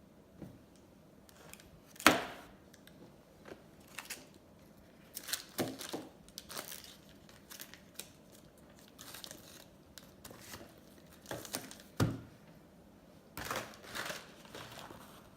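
Plastic ice cream wrapper crinkling and tearing in irregular crackles, with two sharp louder snaps about two seconds in and near the twelve-second mark.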